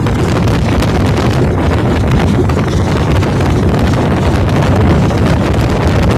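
Loud, steady wind buffeting the microphone over the rumble of a moving passenger train, heard from an open carriage door.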